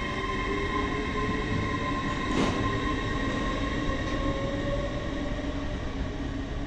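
A train running through the station, with several steady high-pitched whining tones over slowly shifting lower tones, and a short sharp clatter about two and a half seconds in.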